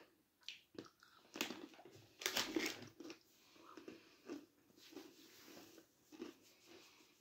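Crunching bites and chewing of a milk-chocolate-coated pretzel: a run of short crunches, loudest about two to three seconds in, then softer chewing.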